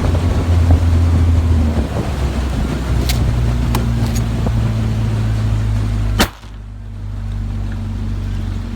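Motorboat engine running steadily with a low hum, under a loud rush of wind and water. About six seconds in there is a sharp click, the rushing noise drops away, and the engine hum goes on at a lower level.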